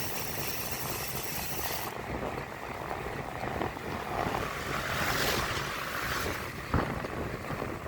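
Wind rushing over the microphone and road noise while riding on the road, steady throughout, with a short sharp click near the end.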